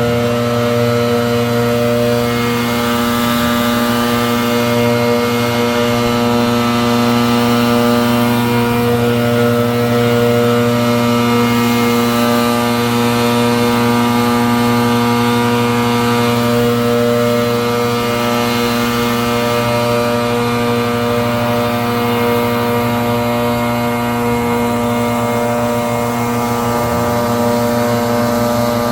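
Leaf blower running steadily at a constant pitch.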